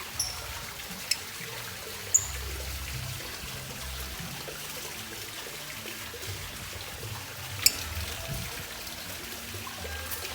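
Lovebird giving two brief high chirps in the first couple of seconds, with a few sharp clicks, over a steady hiss.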